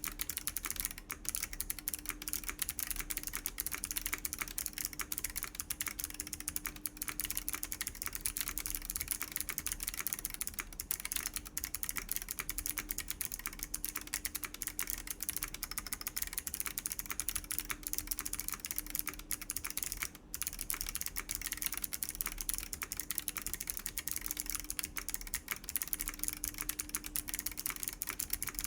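Continuous typing on a Chilkey ND104 mechanical keyboard with WS BigLucky clicky switches, an FR4 plate and PBT doubleshot keycaps: rapid, steady key clicks, with a brief pause about twenty seconds in.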